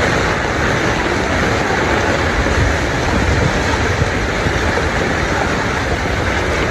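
Steady rushing noise of fast-flowing floodwater, with a low rumble underneath.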